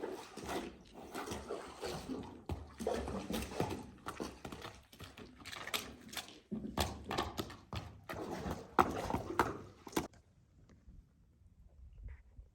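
Wild horses moving close by: irregular scuffing and knocking sounds that stop about ten seconds in.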